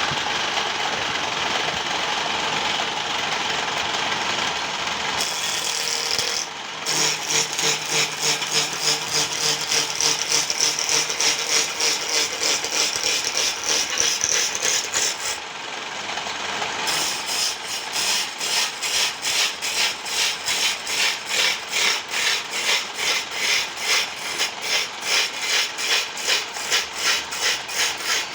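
Wood lathe cutting wood: a steady rasping hiss for the first six seconds, then a pulsing shaving sound at a couple of pulses a second, briefly changing about halfway before the pulsing resumes.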